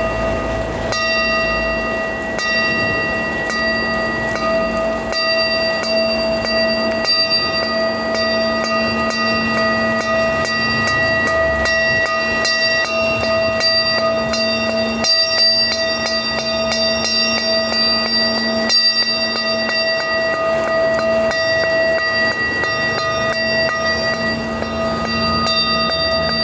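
Several ringing metallic tones held together, with many quick light strikes or clinks scattered over them.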